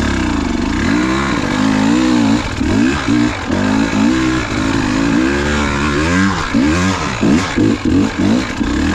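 KTM enduro motorcycle engine revving up and down over and over as the throttle is worked, its pitch rising and falling every second or so.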